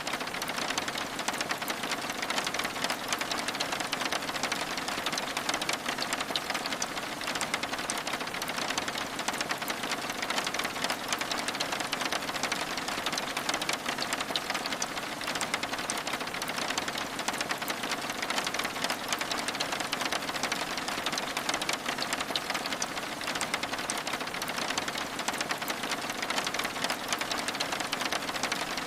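Steady rain pattering on window glass: a dense, even patter of many small drops at a constant level.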